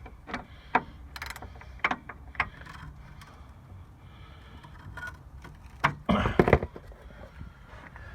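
Hand tools clicking and clanking on metal as a wrench is worked against vise grips on a seized shock absorber nut. There are scattered single clicks, then a louder burst of clanking about six seconds in.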